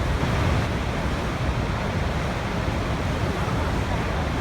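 Waterfall: a steady, even rush of falling water with no breaks, heaviest in the low range.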